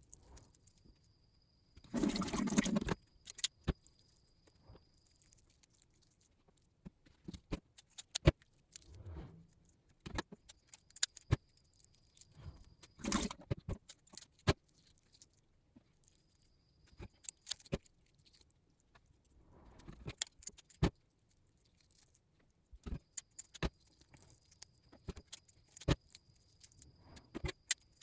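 Underwater sound picked up by a diving camera: scattered sharp clicks and crackles, with a short rushing burst about two seconds in and another about thirteen seconds in.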